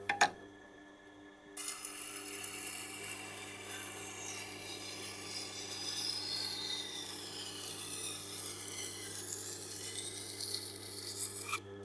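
A knife edge is ground against the turning stone of a Tormek sharpener, a steady rasping scrape from about a second and a half in to near the end. The machine's motor hums underneath throughout.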